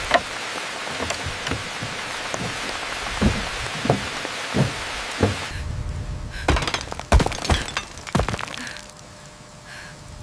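Irregular knocks and thuds, a dozen or so sharp hits with several loud ones in a cluster after the middle, over a steady hiss that cuts off suddenly about halfway through.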